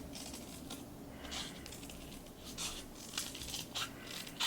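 Scissors snipping paper in a few short, quiet cuts, trimming a paper cut-out into shape.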